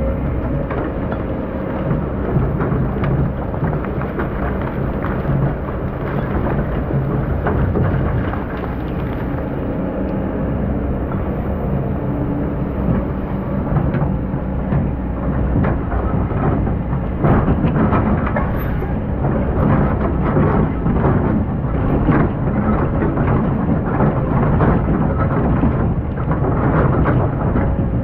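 Excavator's diesel engine running steadily, with sand and stones crunching and clattering in a dense irregular stream that grows busier in the second half.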